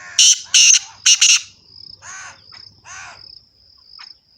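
Bird calls: four loud, sharp calls in quick succession in the first second and a half, then two softer, drawn-out calls about two and three seconds in, over a steady high-pitched whine.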